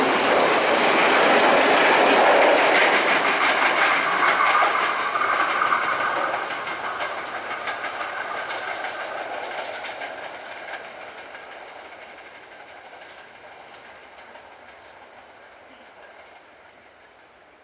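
Sri Lanka Railways passenger coaches clattering over the rail joints as the train pulls away, a rapid clickety-clack that is loud at first and fades steadily as the train recedes.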